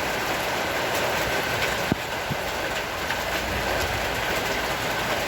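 Heavy tropical rain falling steadily: a dense, even hiss with scattered sharp ticks of drops striking a surface, one clearer click about two seconds in.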